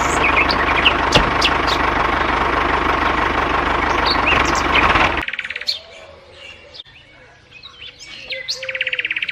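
A machine running steadily with a constant whine, stopping abruptly about five seconds in; birds chirp throughout, and a short rapid rattle sounds near the end.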